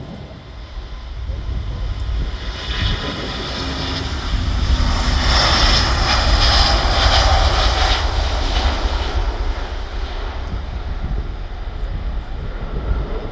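Jet airliner taking off, its engines at takeoff power swelling to a loud peak about halfway through and then fading as it climbs away, over a steady low rumble.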